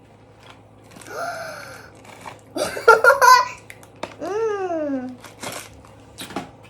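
Wordless voice sounds that rise and then fall in pitch, three times, with a short burst of crinkling and crunching noise about three seconds in.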